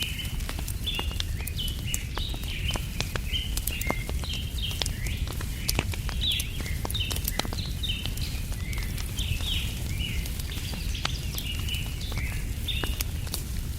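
Wood fire crackling with frequent sharp pops over a steady low rumble, while small birds chirp over and over in quick short notes.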